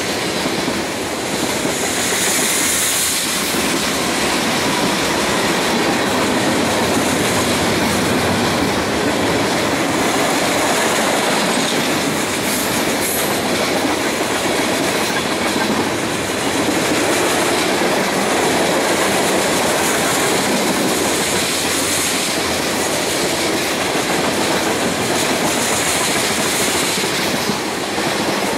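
Freight train of tank cars passing close at speed: steel wheels running on the rails in a steady, loud wash of noise, with a brief brighter hiss every several seconds.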